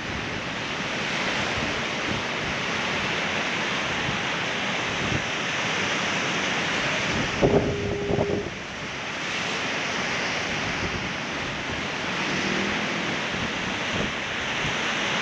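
Ocean surf washing against rocks, a steady hiss of moving water. About halfway through there is a brief low tone and a cluster of short knocks.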